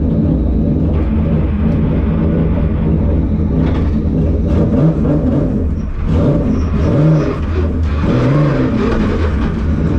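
Car engine running at low revs, a steady low drone with brief small rises and falls in pitch near the middle and toward the end.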